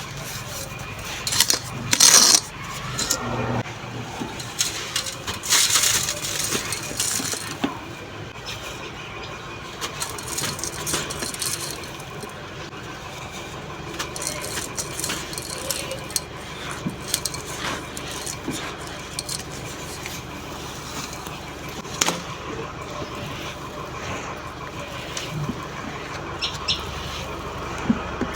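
Blocks of soft packed sand crumbling and being crushed onto a clay pot: a steady gritty crunching with falling grains and small clinks on the pot. There are two louder bursts about two and six seconds in, and a sharp click a little after twenty seconds.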